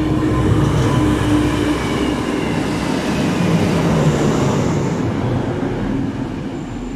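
DB Class 612 diesel multiple unit running past close by, its diesel engine and wheels loud. The sound swells in the first half second, then fades slowly as the carriages go by.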